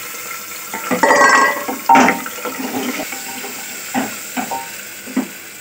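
Chopped onion sizzling in hot oil in a pressure cooker as a wooden spoon stirs it, with clinks and knocks of utensils against the pot; the sharpest knock comes about two seconds in and three lighter taps follow near the end.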